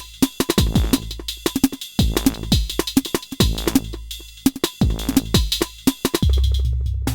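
Elektron Model:Cycles FM groovebox playing a factory pattern: a busy electronic beat of kicks, clicky percussion and pitched FM hits over a low bass line. Near the end the pattern changes to a held deep bass note with fewer hits.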